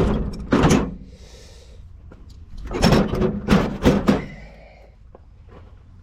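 Sharp knocks and scrapes of metal pipe fittings and tools being handled during a plumbing install. There are two near the start, then a quick run of four about three to four seconds in.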